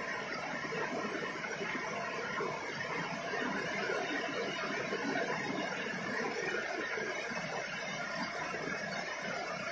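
Heavy rain pouring down steadily, splashing on paved ground and parked cars.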